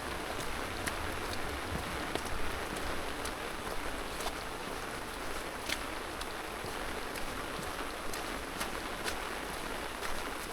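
Steady rain hiss with scattered sharp drop taps at irregular intervals.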